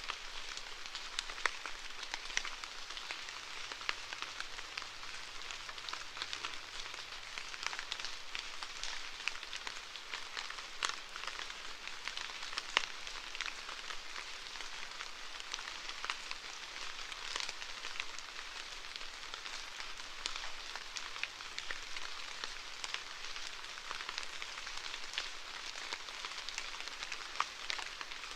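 Steady rain falling, a dense hiss dotted with many individual drops ticking on a surface.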